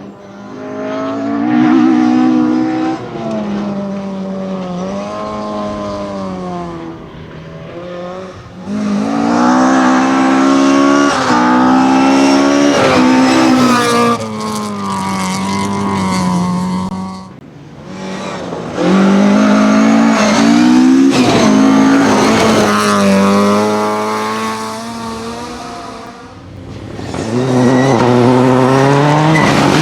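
Rally car engines at full throttle, the pitch climbing and dropping back again and again with gear changes and lifts, in about four loud surges as the cars come by.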